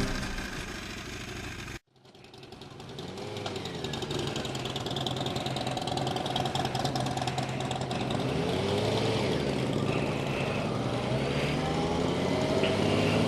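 A music track fades out and cuts off just before two seconds in; then a motorcycle engine running on the road fades in and holds steady under wind noise, its pitch briefly rising and falling a couple of times.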